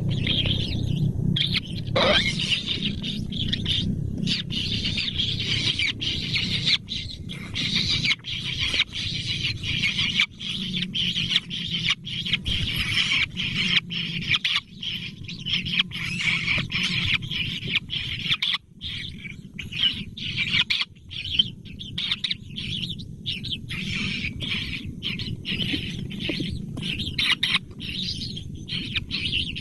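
Birds chirping in a continuous stream of rapid, high-pitched calls, over a steady low rumble.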